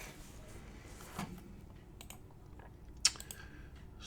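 Trading cards being handled on a table: soft rustles and a few light clicks as cards are shuffled and set down, the sharpest click about three seconds in.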